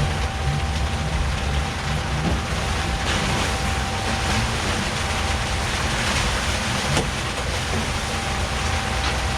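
Steady rain falling over a low rumble, with a faint, steady high whine.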